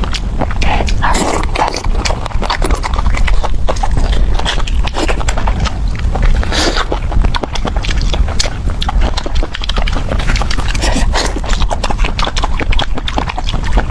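Close-up chewing of chicken heads, bones included, with many quick sharp crunches and clicks one after another.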